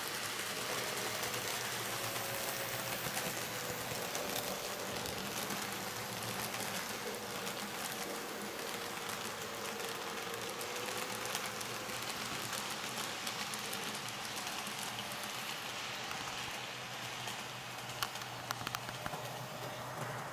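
N scale model train running on track: a steady rolling hiss from the small wheels, with a faint wavering whine from the locomotive's motor. A few sharp clicks come near the end, as wheels pass over rail joints.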